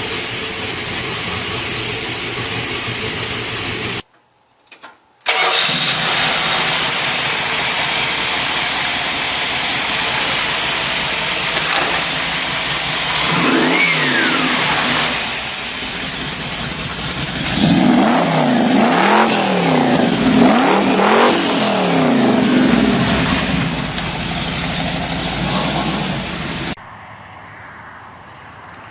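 Dodge car engines: one runs steadily, then after a short break another fires up loudly and is revved several times, its pitch climbing and falling, before the sound drops to a quieter engine near the end.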